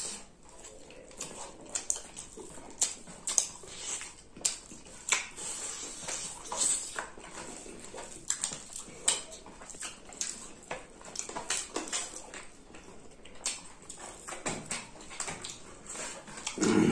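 Close-miked chewing and lip-smacking of two people eating spicy chicken and rice by hand, a string of irregular wet clicks and smacks. A short low vocal sound comes near the end.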